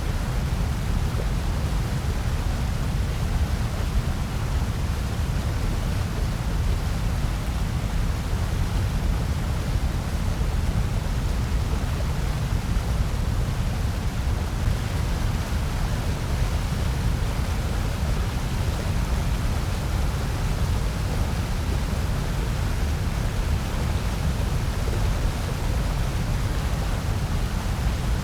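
Steady, unchanging artificial noise of the kind sold as white noise for sleep or focus. Its energy is weighted toward a low rumble, with an even hiss above it.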